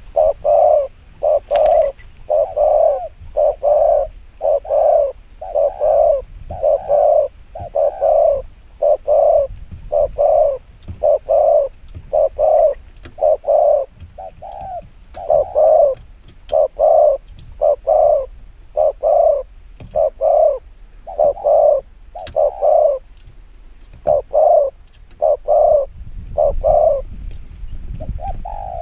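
Spotted dove cooing fast and persistently, hollow coo notes in quick runs of one to two a second with only brief pauses: the rapid 'kích bổi' call that keepers use to provoke and draw in wild doves.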